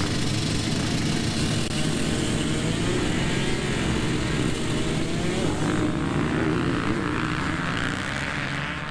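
Several dirt bike engines running together, a dense mix of engine noise whose pitch rises and falls as the bikes rev. It eases off slightly near the end.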